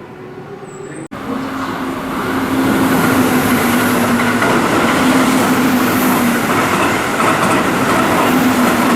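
Keihan 3000 series electric train running past at speed: loud, dense rushing wheel-and-rail noise over a steady low hum. It starts suddenly about a second in, after a quieter stretch.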